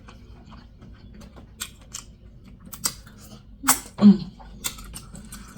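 Close-miked eating of a buttery seafood boil: wet chewing and lip-smacking, a run of quick sticky clicks and smacks, with a short hummed sound from the eater about four seconds in.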